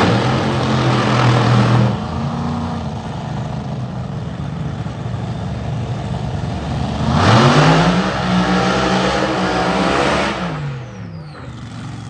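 Drag-racing car engine running, then revving hard: the pitch rises sharply about seven seconds in and holds loud for a few seconds. Near the end it fades away with a falling pitch as the car pulls off down the track.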